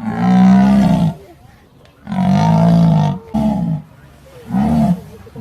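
A big cat roaring: three loud, deep calls about two seconds apart, the first two long and the last shorter, with a brief grunt after the second.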